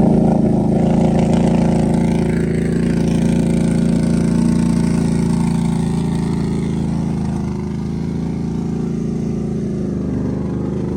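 Off-road vehicle engine running steadily at a constant pitch, gradually getting a little quieter.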